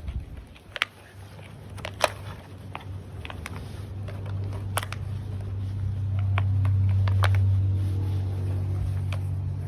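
A low, steady drone that swells to its loudest about seven seconds in and then eases off slightly, with scattered light clicks over it.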